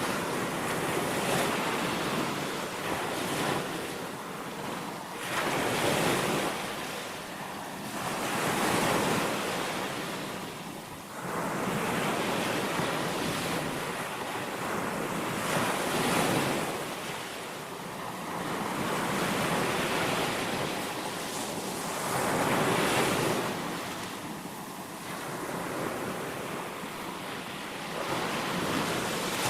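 Baltic Sea waves breaking and washing on a sandy beach, the surf rising and falling in swells every three to four seconds, with some wind on the microphone.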